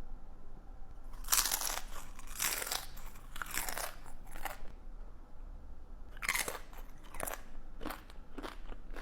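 Close-miked crunching as a person bites and chews crisp, crunchy food. There is a run of crunches for the first few seconds, a short pause, then several more crunches near the end.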